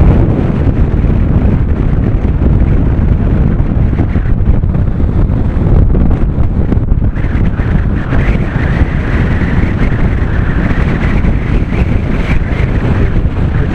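Strong wind buffeting the microphone of a camera carried on a moving bicycle: a loud, steady rumble. A higher hiss joins it from about halfway through and fades near the end.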